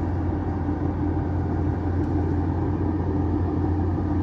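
Bulldozer's diesel engine running steadily under load, a deep even drone with a constant hum.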